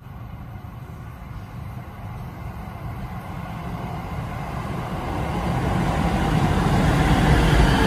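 Shin-Keisei Line electric commuter train approaching along the track into the station, its rumble growing steadily louder as it nears.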